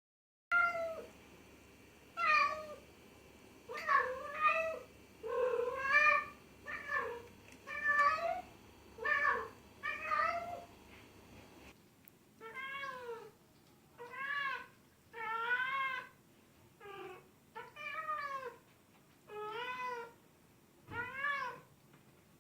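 A domestic cat meowing over and over, about one meow a second. Around 12 s the background changes and a second run of meows follows, each call rising and then falling in pitch.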